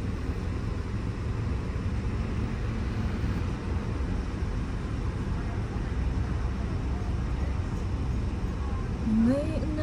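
Steady low rumble of a car driving, heard from inside the cabin. A voice starts near the end.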